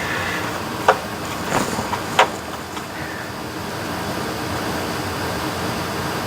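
Hand screwdriver and parts clicking against a plastic instrument cluster housing during reassembly: three sharp clicks in the first two and a half seconds, over a steady low hum.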